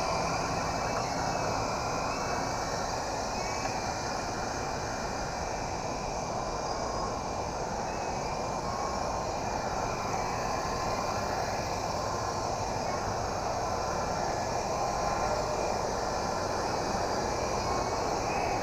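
Toy RC helicopter's small electric motor and rotors whirring steadily, the faint whine wavering a little in pitch as the throttle changes, over a constant rushing noise.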